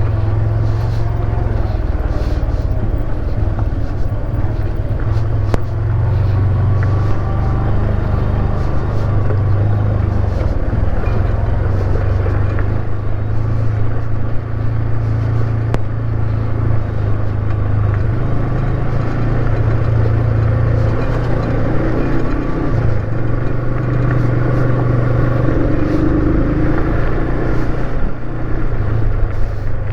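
Motorcycle engine running while the bike is ridden, its pitch rising and falling gently with the throttle, with a steady rumble of wind and road noise underneath.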